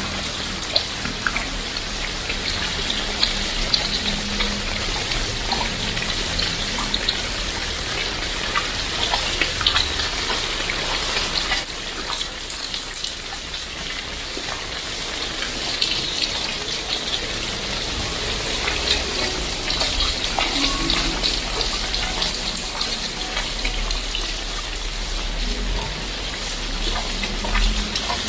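Heavy tropical rain falling steadily, a dense patter of many small drops on surfaces.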